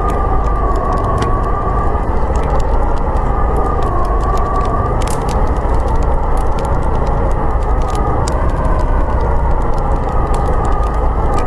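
Howling blizzard wind, a steady loud rush with a whistling pitch that slowly wavers up and down, with faint scattered crackles of a wood fire.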